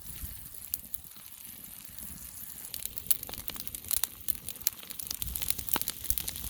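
Fajita steak and vegetables sizzling in oil over a campfire: a steady high hiss with sharp crackling pops that come thicker and louder from about halfway through.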